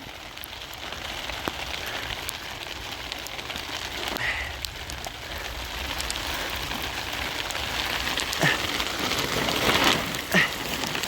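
Heavy rain falling steadily, with many individual drops ticking sharply.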